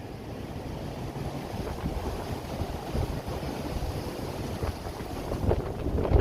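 Strong wind buffeting the microphone over the wash of big storm surf, with a hard gust hitting the microphone near the end.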